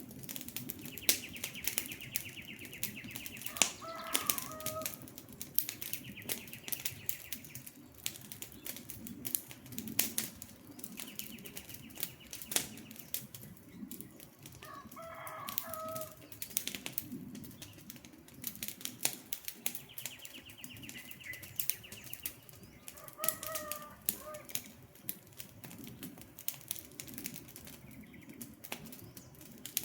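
Wood campfire crackling, with many sharp pops over a low steady rush of flame. A short bird call sounds three times, and a high buzzing trill comes and goes between the calls.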